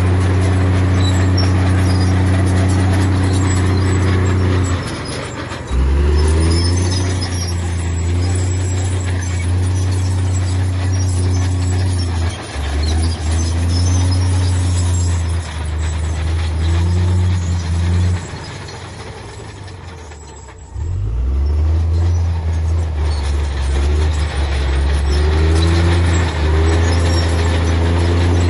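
Heavy diesel engine of earthmoving machinery running loud and steady. It throttles down briefly a few times and drops off for a couple of seconds before revving back up.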